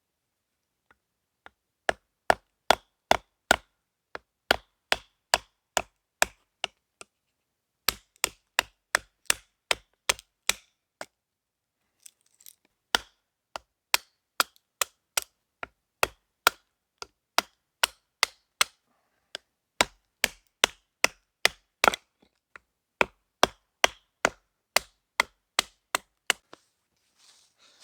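Rhythmic chopping on wood: sharp, evenly spaced strikes at about three a second, in runs of several blows with short pauses between them.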